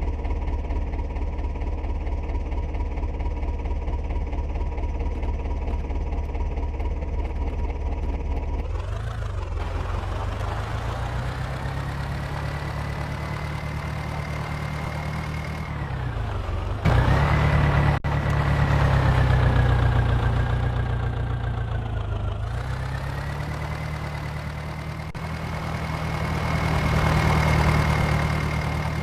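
Tractor diesel engine idling, then revved up about nine seconds in and held at high revs, with the revs dipping and climbing back twice.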